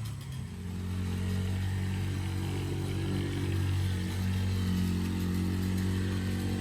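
Small off-road vehicle engine running as it is ridden around a dirt track, its pitch rising and falling a little with the throttle.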